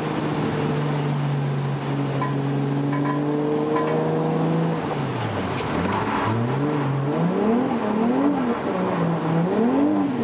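Toyota JZX100's inline-six engine held at steady revs for about four and a half seconds, then dropping off and revving up and down in quick repeated swells, as when drifting.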